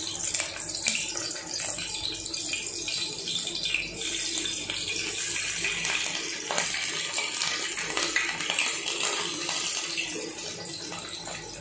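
Chopped ginger, garlic and green chillies sizzling in hot oil in an aluminium pressure cooker: a steady hiss with small crackles.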